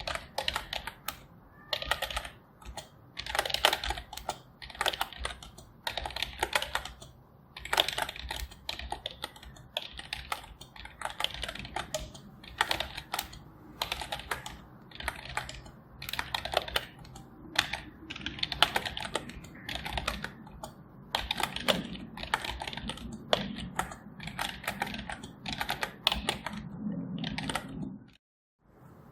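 Typing on a computer keyboard: rapid runs of key clicks with short pauses between them, stopping briefly about a second before the end.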